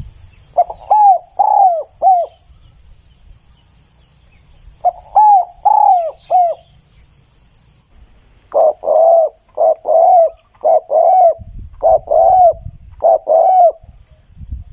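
Spotted dove cooing: three phrases of arched coo notes, first two short phrases of four notes each, then a longer phrase of about ten notes.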